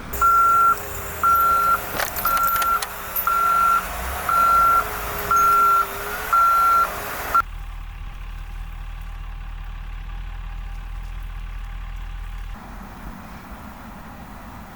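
A heavy vehicle's reversing alarm beeping at one steady pitch, about once a second, seven times. It cuts off abruptly and gives way to a steady low rumble.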